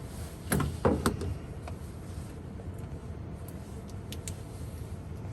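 A few sharp clicks and knocks about half a second to a second in, then a few faint ticks, over a steady low hum.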